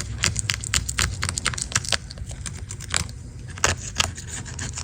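Irregular crackling and clicking from the grimy, sticky iPad case being pulled and pried off the tablet, thickest in the first two seconds.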